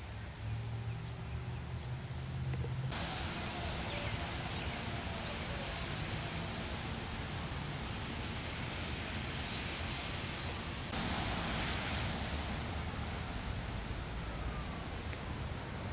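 Steady rushing of strong wind and rain, with a low rumble underneath. The noise changes abruptly about three seconds in and again near eleven seconds.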